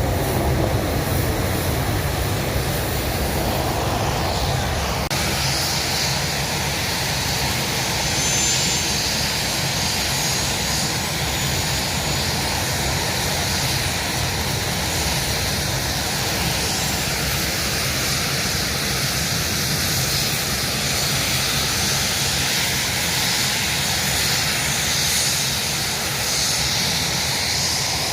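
Fixed-wing aircraft engine noise, continuous and steady. A higher hiss joins in about five seconds in.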